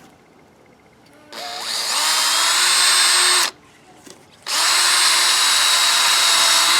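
Power drill running in two bursts of about two seconds each, working into the wooden 2x2 frame. It spins up with a rising whine, stops, then runs steadily again.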